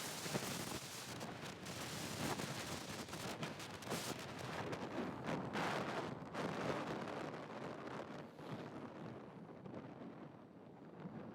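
Rough, crackling wind buffeting on the microphone, swelling and fading, easing off a little near the end.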